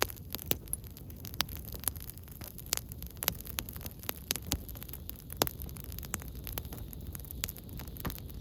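Campfire of burning firewood crackling: irregular sharp pops and snaps, several a second, over a low steady rumble.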